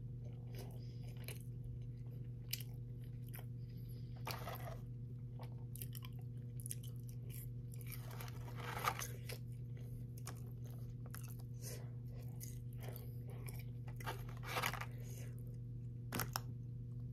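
Close-miked chewing and crunching of Chick-fil-A fried chicken, wet mouth sounds with crisp bites, louder about four, nine and fifteen seconds in. A steady low hum runs underneath.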